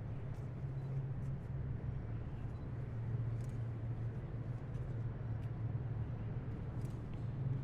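Steady low rumble of vehicle engines on a city street, with short faint high chirps or ticks scattered over it.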